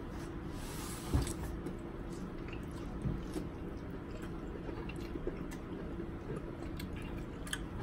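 Close-miked chewing and wet mouth sounds of someone eating seafood-boil crab meat, with scattered soft clicks and one sharper knock about a second in.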